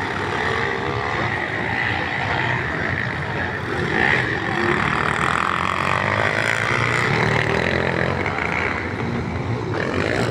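Motocross motorcycle engines revving up and down continuously, several bikes overlapping.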